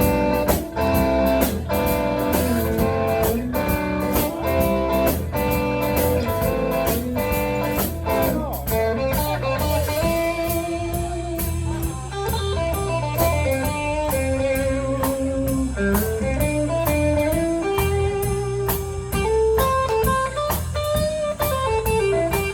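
Band playing an instrumental intro on guitar and drum kit. It opens with rhythmic strummed chords and drum hits, and from about ten seconds in a lead melody with long held, sliding notes takes over.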